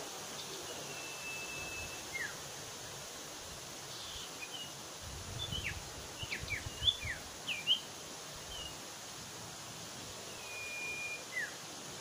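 Bird calls over outdoor ambience. A long, level whistle that ends in a short falling note comes near the start and again near the end. In the middle there is a run of short, sharp chirps and quick falling notes.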